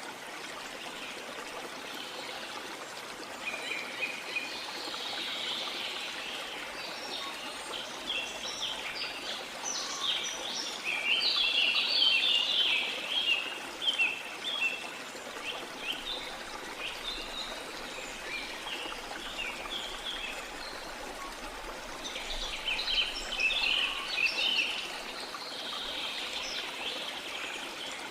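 Steady rush of a waterfall, with tropical forest birds chirping and calling over it in busy flurries, thickest about a third of the way in and again near the end.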